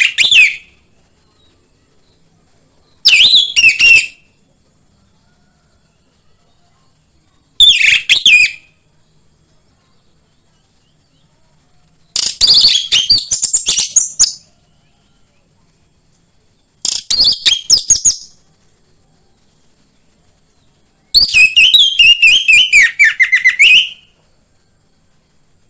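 Orange-headed thrush singing in loud, rapid phrases of varied high notes, each one to three seconds long and coming every four to five seconds, played as a lure to set other thrushes singing. A faint steady high hiss continues beneath.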